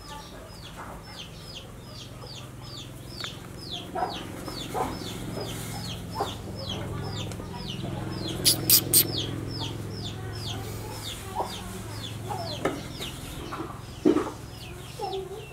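Bird calls: a steady series of short, high, falling peeps, about three a second, with a few short lower clucks between them. Three sharp clicks come in quick succession about halfway through.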